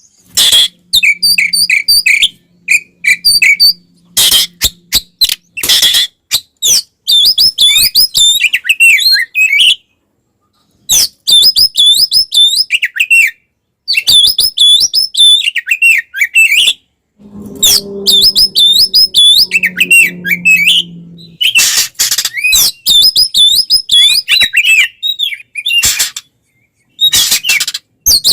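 Oriental magpie-robin singing loud, fast warbling phrases in its aggressive fighting-style song, with harsh rasping bursts between phrases. The phrases are broken by brief pauses.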